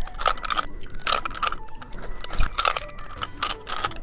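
Crunchy candy being bitten and chewed close to the microphone: a series of sharp, irregular crunches.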